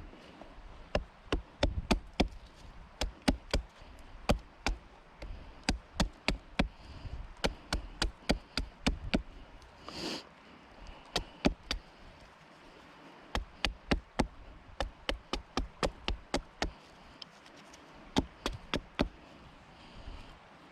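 Repeated sharp knocking blows, like hammering, in runs of quick strikes about two to three a second, with a couple of pauses and a brief rustling noise about halfway through.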